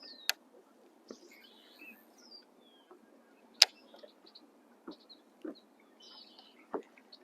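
Birds chirping, broken by two sharp clicks, one just after the start and a louder one about three and a half seconds in, and a few softer knocks toward the end.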